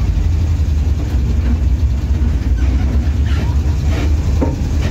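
Car engine running with a steady low rumble, heard from inside the cabin as the car moves slowly.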